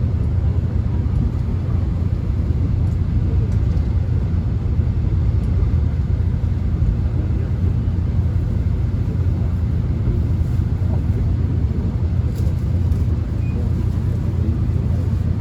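Steady low rumble of a subway train heard from inside the car as it runs, with a few faint clicks near the end.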